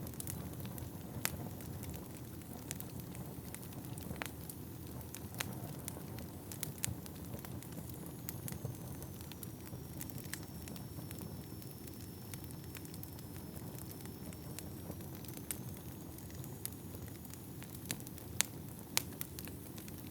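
Wood fire burning in a fireplace: a steady low rush of flames with sharp, irregular crackles and pops of burning wood, a few louder pops near the end. A faint high whistle dips and rises again through the middle.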